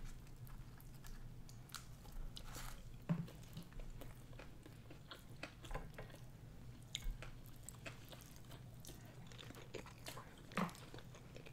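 Faint, close-miked chewing of sushi rolls: soft wet mouth sounds with scattered small clicks and light crunches.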